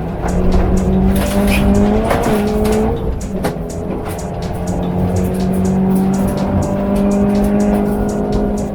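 Subaru WRX rally car's turbocharged flat-four engine running at high revs under hard driving, with a pitch that shifts slightly about two seconds in. Many sharp clicks of gravel striking the car and tyres scrabbling on the loose surface.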